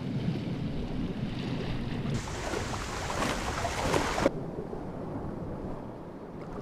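Rushing outdoor ambience of wind-like noise, changing character abruptly about two seconds in and again past four seconds.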